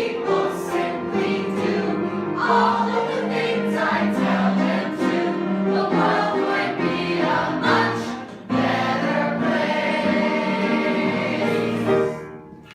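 A group of voices singing a musical-theatre number together in harmony, with long held notes. There is a short break about eight seconds in, and the singing fades out near the end.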